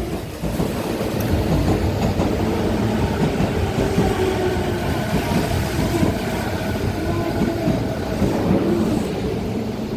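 JR East E231 series commuter train running through a station without stopping: a steady rumble of wheels on the rails, with faint wavering tones over it.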